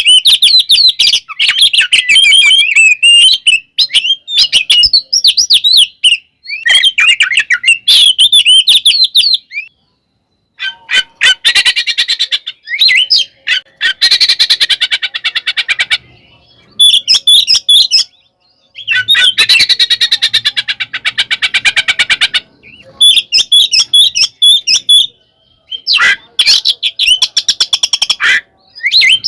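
Oriental magpie-robin (kacer) singing loudly in phrases of a few seconds: varied high whistles and warbles in the first third, then long fast rattling, chattering runs, with short pauses between phrases.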